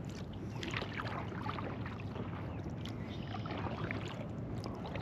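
Kayak paddle strokes in calm water: the blade dipping in, with scattered small splashes and drips of water.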